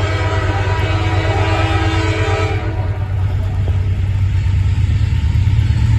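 Freight train's locomotive air horn sounding a steady chord of several notes, cutting off a little under three seconds in, over a continuous low rumble.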